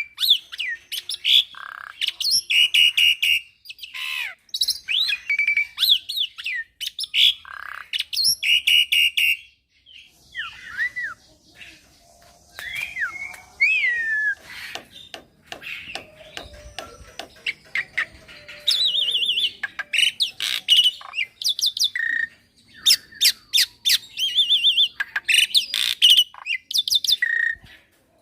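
Young black-winged myna (jalak putih) singing a long, varied song of fast chattering phrases, whistled and gliding notes, and harsh squawks. About halfway through, the singing drops to a quieter stretch of softer, scratchy notes and rapid clicks before the loud phrases return.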